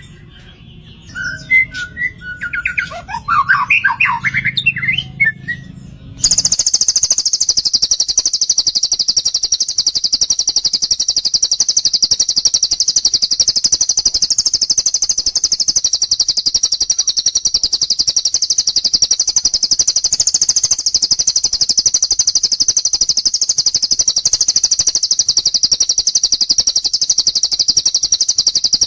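Recorded songbird calls: a few short chirps and squawks, then from about six seconds in, one very high, rapid trill that runs on without a break.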